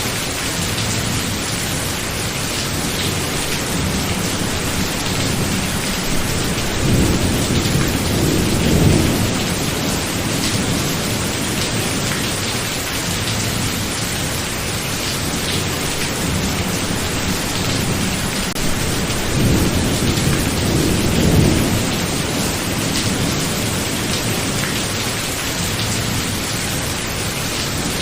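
Steady heavy rain in a thunderstorm, with two low rolls of thunder swelling up, the first about seven seconds in and the second about twenty seconds in.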